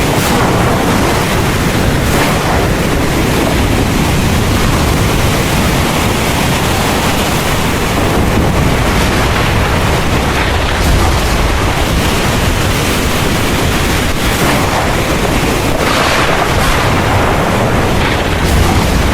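Heavy rain pouring steadily, with a deep low rumble running under it.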